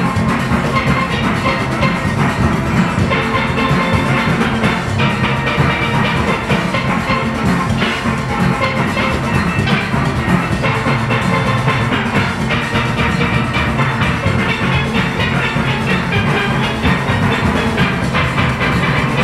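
A large steel orchestra of about 40 players playing a fast calypso arrangement: many steelpans ringing together over a steady drum kit and percussion beat.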